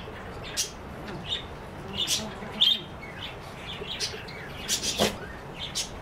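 Small birds chirping, short high calls coming every second or so, with a single sharp click about five seconds in.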